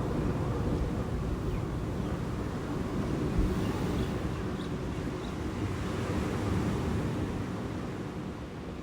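Strong wind buffeting a phone's microphone in gusts, with ocean surf washing against the lava shoreline underneath.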